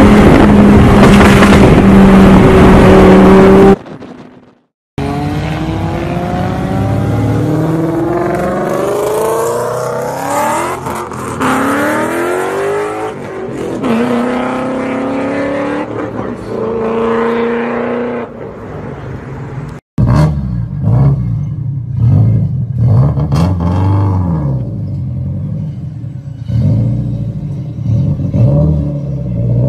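Loud performance car exhausts in a run of short clips. First an engine is held at steady high revs. Then a car accelerates through the gears, its pitch sweeping up again and again. Last, an engine revs up and down with sharp cracks.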